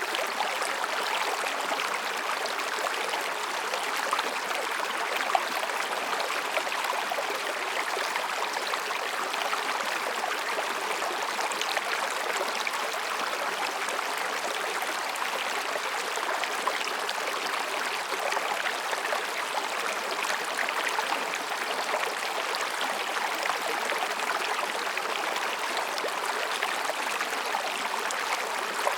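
Mountain stream babbling steadily as it flows over and between rocks.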